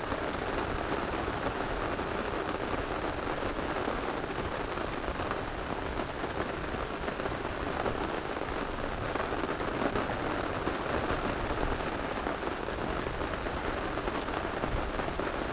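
Steady rain falling, an even hiss with faint scattered ticks.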